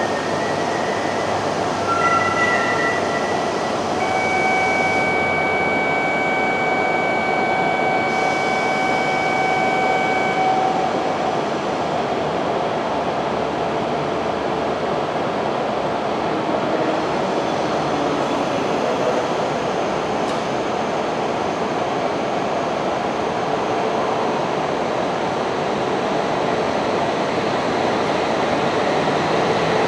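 E5 series Shinkansen train departing a station platform, a steady rail and running noise throughout as it begins to move. A steady electronic tone sounds from about four seconds in for some six seconds.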